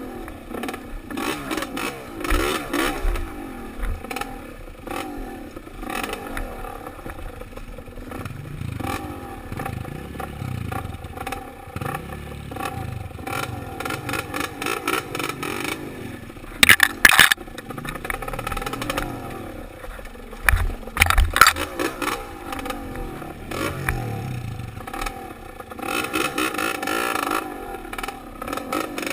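Dirt bike engine revving up and down as it is ridden over a trail, heard from a helmet-mounted camera. Several loud clattering knocks and scrapes from the bike over rough ground, the sharpest around the middle.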